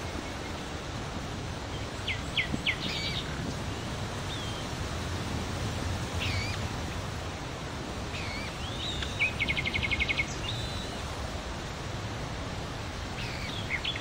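Bird calls: a few quick chirps, then single calls, then a fast, even trill, over a steady outdoor background noise.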